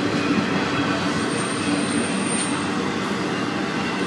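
Florida East Coast Railway intermodal freight cars rolling steadily past, wheels running on the rails, with a thin high-pitched tone coming in about a second in.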